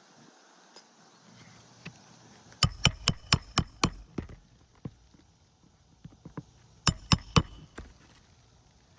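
A hammer driving roofing nails through an asphalt architectural shingle. There is a quick run of six sharp strikes, about four a second, then a few light taps, then three more sharp strikes near the end.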